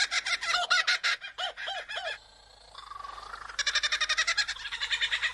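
Superb lyrebird singing its mimicked song: rapid runs of repeated laughing notes in the manner of a kookaburra, about ten a second. The run breaks off a little after two seconds and starts again about a second and a half later.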